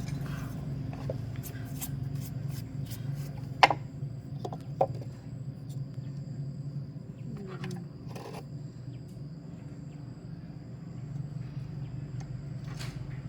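Scattered clicks, knocks and scrapes over a steady low hum: the sound of tools and parts being handled during repair work on a machine.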